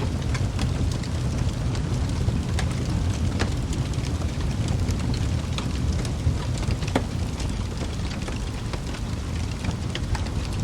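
Wood fire burning in a fireplace: a steady low rumble of flames with frequent small crackles and pops from the burning logs, a few of them sharper than the rest.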